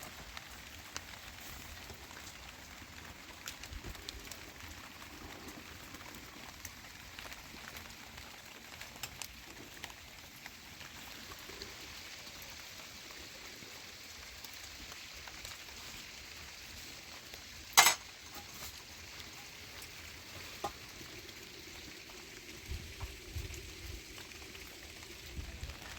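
Steady rain pattering, a fine crackling hiss of many small drops. A single sharp click or knock about eighteen seconds in stands out above it.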